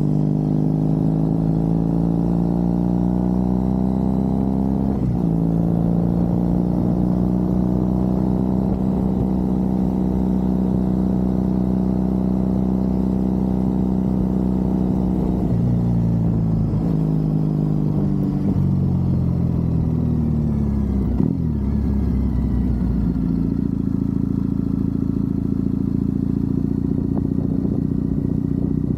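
Triumph Bonneville parallel-twin engine heard from the rider's seat while riding. It pulls up through the revs, drops at a gear change about five seconds in and climbs slowly. Past the middle the revs fall away through downshifts, with a short click of a gear change, then it runs at steady revs near the end.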